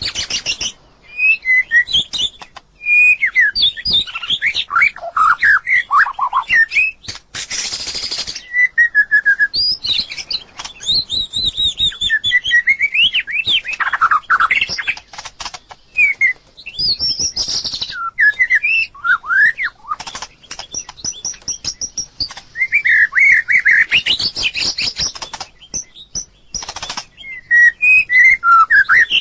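White-rumped shama singing: a long run of varied whistled phrases that glide up and down, broken by short pauses and by bursts of sharp clicking.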